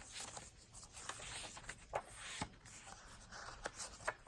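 Paper pages and cards of a handmade journal rustling and sliding as they are handled and turned, with several light taps, the sharpest about two seconds in.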